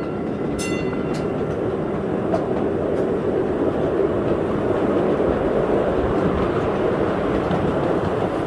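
Train wheels rolling steadily along rails, with a few faint clicks over the track. A short pitched ring sounds just after the start.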